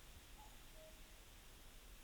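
Near silence: faint, even outdoor ambience, with two very faint short notes about half a second in.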